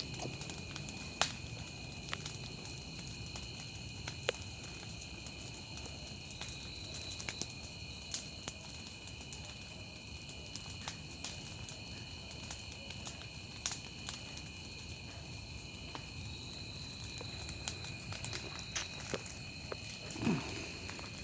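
A bonfire crackling, with scattered sharp pops, over a steady high-pitched chorus of insects trilling.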